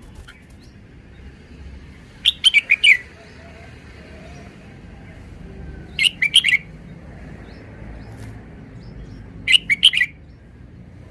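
Red-whiskered bulbul singing: three short phrases of quick, bright notes, about three and a half seconds apart.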